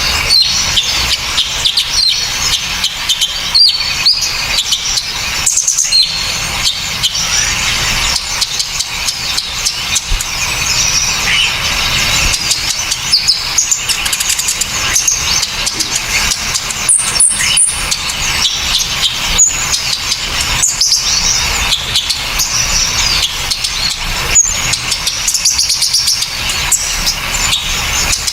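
Loud, sharp bird chirps and twittering packed closely together throughout, a layered mix of several small songbirds' calls, with a brief very high note about two-thirds of the way through.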